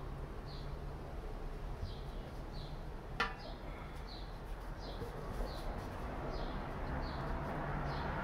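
A bird chirping over and over, one short high chirp sliding down in pitch about every three-quarters of a second, over a low steady hum. A single sharp click comes about three seconds in.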